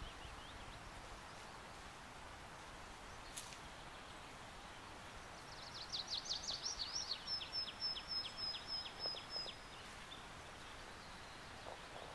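Woodland ambience with a steady hiss. A songbird sings a run of about fifteen quick down-slurred high notes for about four seconds midway, after a single short chirp.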